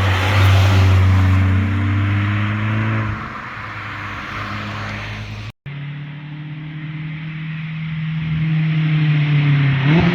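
Car engines and exhausts on flybys. One car's exhaust drone passes and fades over the first few seconds. After an abrupt cut, a second car approaches, its engine note growing steadily louder and shifting in pitch near the end as it revs past.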